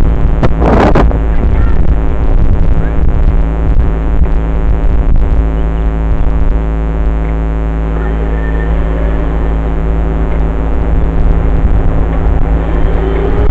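Dirt bike engine running at a steady speed, with heavy wind rumble on the microphone. A brief noisy burst about a second in.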